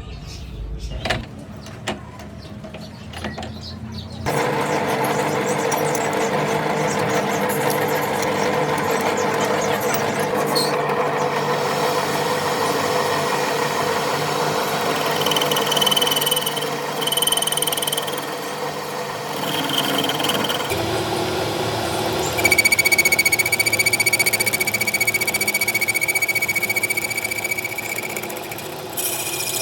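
A power tool or machine working the metal of a truck gearbox main shaft: a steady machine noise that starts about four seconds in, with a high, steady squeal of metal on metal that becomes loudest in the last third.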